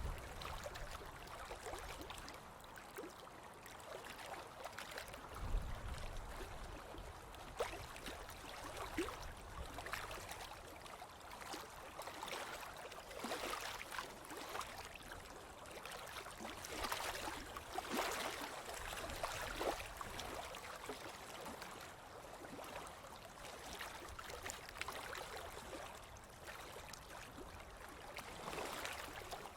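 Ocean waves washing onto a beach, a steady hiss of water that swells and fades every few seconds. There is a low rumble about five seconds in.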